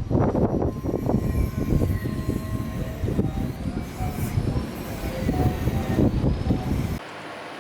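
Jet airliner engines rumbling loudly with a faint steady whine above, which cuts off suddenly near the end.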